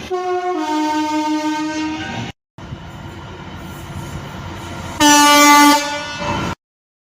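Train horns and a passing train. A two-tone horn sounds a short higher note and then a held lower note. After a cut comes the steady rumble of a passing train, then a loud horn blast near the end.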